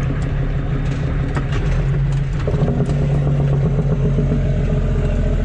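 Kenworth W900 dump truck's Caterpillar C13 diesel engine running under way, its pitch stepping up about halfway through as it pulls harder.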